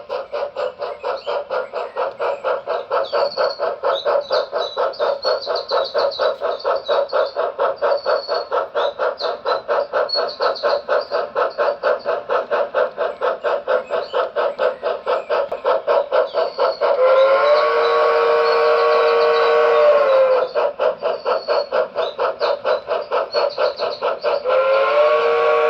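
HO scale Reading consolidation steam locomotive's DCC sound decoder playing steady, rapid steam exhaust chuffs. A whistle blast of about three seconds sounds about two-thirds of the way through, and another starts near the end.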